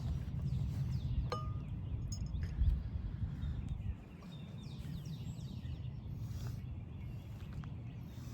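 Outdoor ambience: an uneven low rumble, heavier for the first four seconds, with birds chirping and a few faint clicks.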